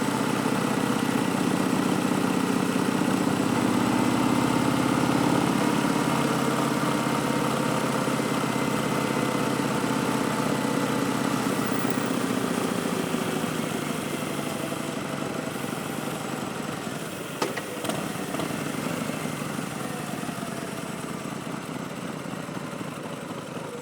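2019 Harley-Davidson Street Bob's Milwaukee-Eight V-twin, breathing through Vance & Hines Twin Slash slip-on mufflers, running steadily at low revs. It slowly gets quieter over the second half, with one sharp click about 17 seconds in.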